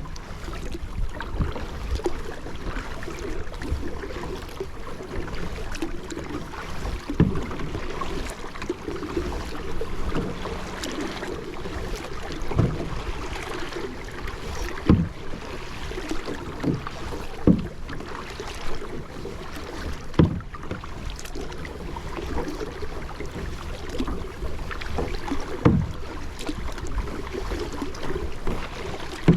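Kayak paddling: the paddle blades dip and pull through the water every couple of seconds, over a steady wash of water along the hull.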